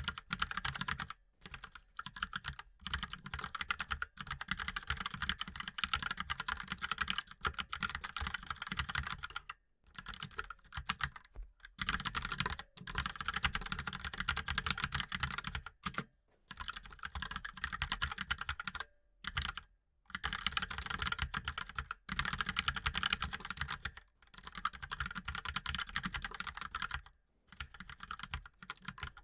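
Mechanical keyboard being typed on fast: rapid runs of key clicks, broken by short pauses every few seconds.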